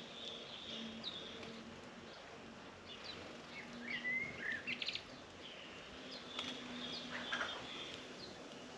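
Small birds chirping and calling in short notes and quick glides, with a busy cluster of calls about halfway through.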